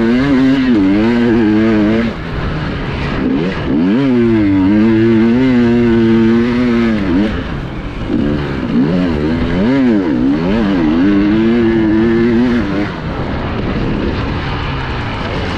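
Enduro motorcycle engine running hard, its pitch rising and falling again and again as the throttle is opened and closed. After about thirteen seconds the engine note becomes rougher and less clear.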